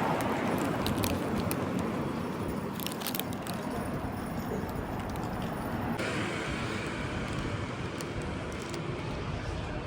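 Outdoor urban ambience: a steady wash of traffic noise with scattered small clicks. The background changes abruptly about six seconds in.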